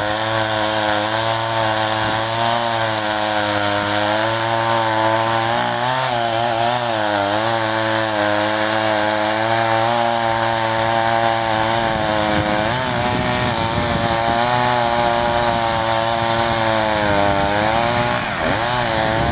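Two-stroke chainsaw running near full throttle, cutting into a dead oak; its pitch sags and recovers several times as the chain loads up in the cut.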